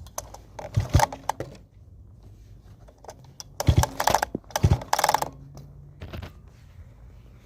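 Small engine's recoil starter pulled several times in short, rattly bursts, the engine turning over without firing: no spark at the plug lead.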